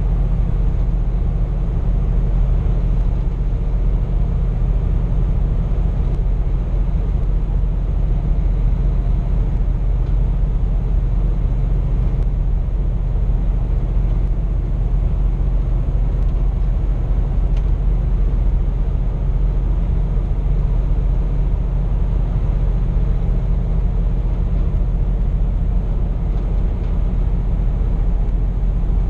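Scania P420 truck's diesel engine and road noise heard from inside the cab while cruising: a steady low drone that holds even throughout.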